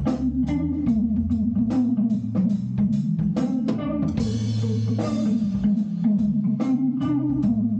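Band playing an instrumental passage: guitar and bass guitar over a drum kit keeping a steady beat.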